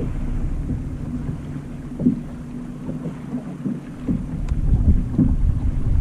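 Strong wind buffeting the microphone on a small fishing boat, with waves slapping against the hull in irregular thumps. A low steady hum underneath fades out about halfway through.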